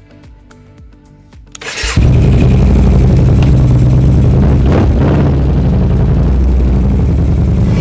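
Yamaha Bolt motorcycle's air-cooled V-twin engine starting about two seconds in, then running loudly and steadily, with a brief swell near the middle.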